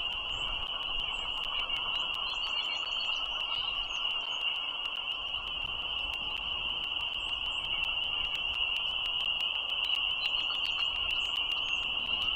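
Chorus of frogs calling together, a dense, unbroken high-pitched chorus, with a faint rapid ticking throughout.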